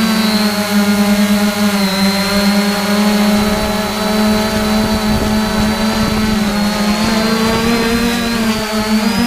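3DR Iris+ quadcopter's electric motors and propellers buzzing in flight: several close pitches that glide and cross as the motors change speed near the start, then hold mostly steady.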